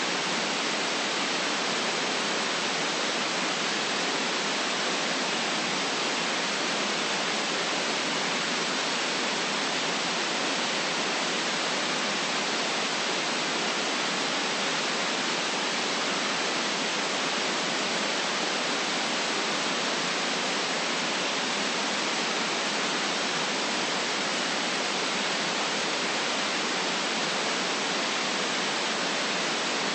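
Steady, unchanging white noise: an even hiss with most of its weight in the upper range and little low end.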